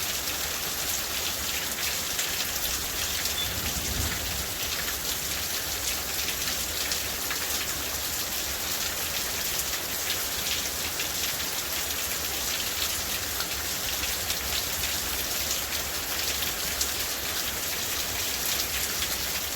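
Steady heavy rain falling, a dense even hiss of many separate drops, with a brief low rumble about four seconds in.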